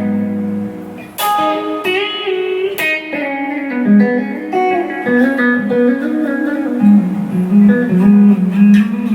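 Gibson Les Paul electric guitar playing blues lead licks: a short chord, then single-note phrases with string bends and quick runs, settling on a held low note near the end.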